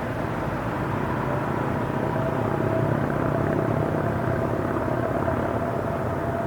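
Train station ambience: a steady low rumble, with a faint high steady whine that comes in about two seconds in and holds.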